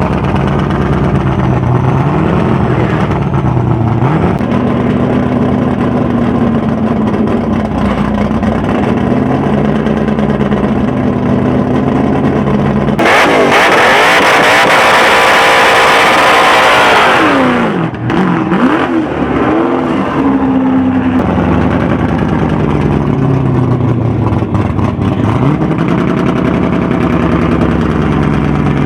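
Naturally aspirated Ford Maverick V8 on two four-barrel carburettors idling with its pitch wandering up and down. About halfway through it is revved hard, climbing in pitch for about four seconds, then the throttle snaps shut and the revs fall back to idle.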